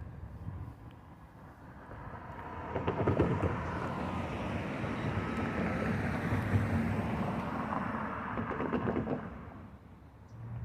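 Passenger train passing over a grade crossing. The sound builds up, runs loud for about six seconds with bursts of clattering near its start and end, then fades away.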